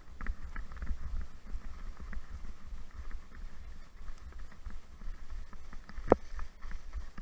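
Wind rumbling on the microphone while a husky team runs through snow, with a light irregular patter and clicking over it and one sharp knock about six seconds in.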